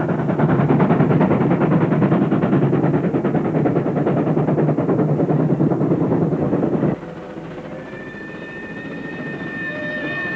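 Steam locomotive running, a dense rapid pulsing noise that cuts off suddenly about seven seconds in. A quieter passage follows, with a steady high tone held for the last couple of seconds.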